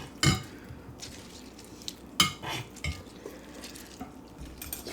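A few sharp light knocks and clinks of dishes and utensils, with soft handling noise, as lime halves are squeezed over a bowl of pozole.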